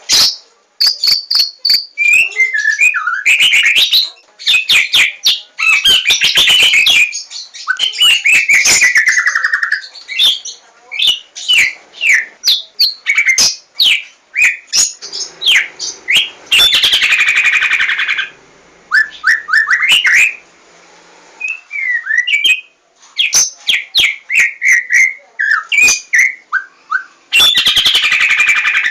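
White-rumped shama (Javanese murai batu) singing a long, varied song: quick runs of short clicking notes, whistled slides falling in pitch, and a few harsh buzzy phrases, broken by short pauses.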